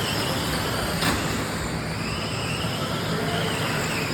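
Electric motors of radio-controlled sprint cars whining in a pack, the pitch rising and falling as the cars speed up and slow round the oval. A sharp click about a second in.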